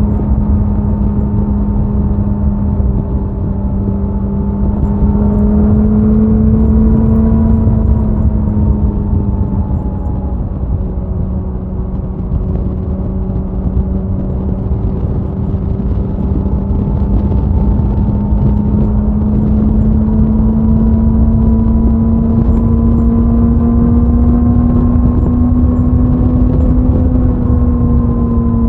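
Suzuki Hayabusa's inline-four engine and exhaust at a steady highway cruise, with wind rush over the microphone. The exhaust note sags a little about a third of the way in, then climbs gently as the bike speeds up toward the end.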